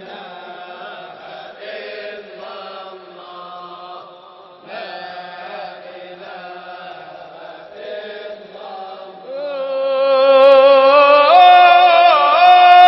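Sufi devotional music (inshad): a wordless melodic passage of shifting notes that gives way, about nine seconds in, to a louder, long-held note with vibrato, which steps up in pitch shortly after.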